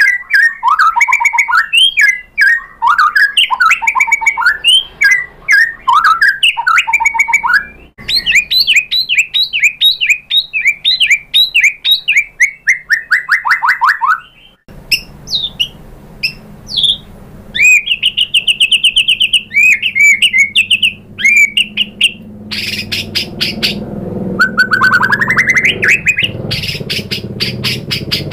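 White-rumped shama singing loud, rapid, varied song: sweeping whistles, quick repeated notes and sharp ticking trills. The song comes in several stretches that switch abruptly, with a low hum behind the second half.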